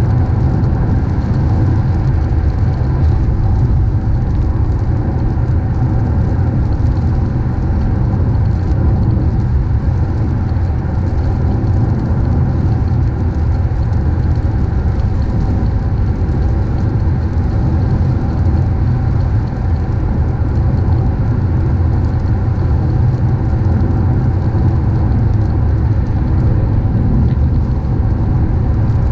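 Steady rumble of a moving car, tyre and engine noise on the road, with no change in pace throughout.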